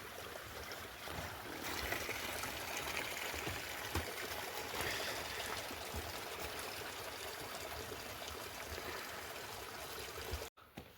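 Heavy rain falling and water pouring and running, a steady hiss that grows louder about two seconds in and cuts off suddenly near the end.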